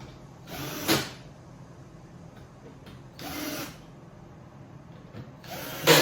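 Cordless drill/driver driving screws in three short runs of about half a second each; the first and last end in a sharper, louder snap.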